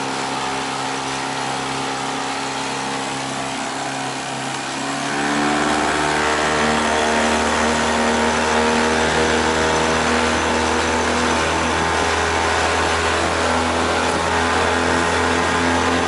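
Freshly overhauled boat outboard motor under way. About five seconds in it speeds up and grows louder, then holds a steady, even higher speed, running smoothly now that it is repaired.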